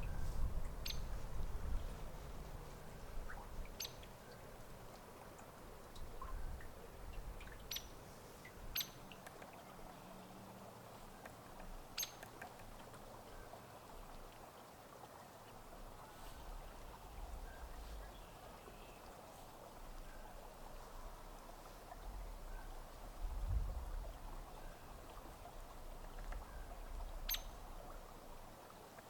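Hairy woodpecker giving sharp, very short, high-pitched call notes, about six of them at irregular intervals, over a low rumble of wind.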